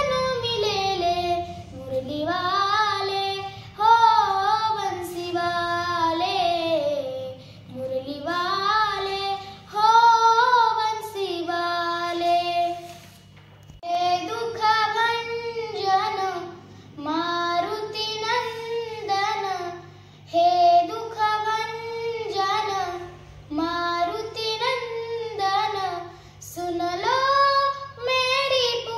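A young girl singing a Marathi gavlan solo, in long melodic phrases that rise and fall with short breaks between them.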